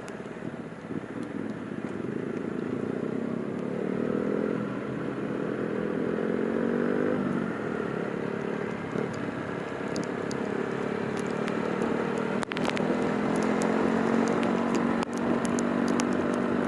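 Motorcycle engines running steadily, their pitch drifting up and down a little, with scattered clicks and a brief break about twelve seconds in.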